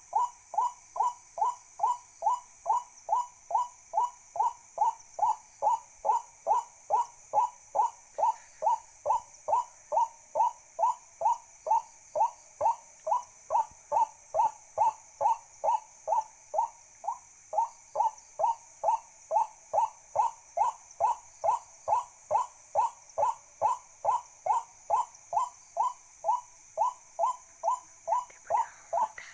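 A bird call: a short rising note repeated steadily about twice a second, with a brief break about seventeen seconds in, over a steady high-pitched hiss.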